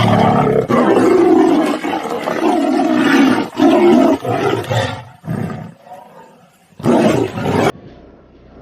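Tigers fighting, roaring almost without a break for about five seconds, then a short weaker growl and one more brief loud roar about seven seconds in.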